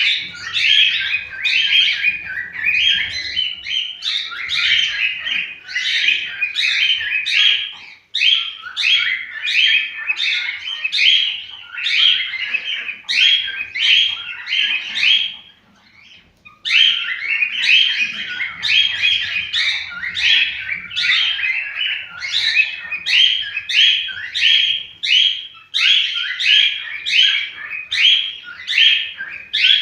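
Cockatiels chirping and singing in quick, repeated whistled notes, with a brief pause about halfway through.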